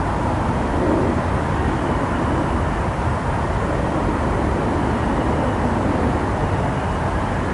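Steady city street ambience dominated by continuous traffic noise, with no single event standing out.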